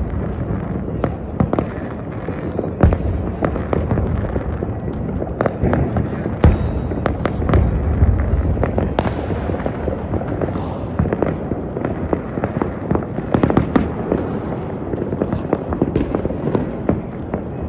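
Fireworks going off: many sharp bangs at irregular intervals over a continuous rumble and crackle of further blasts.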